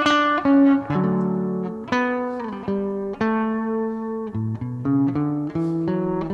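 Solo guitar playing a slow instrumental introduction to a ballad, a new chord or note every half second to a second, each left to ring.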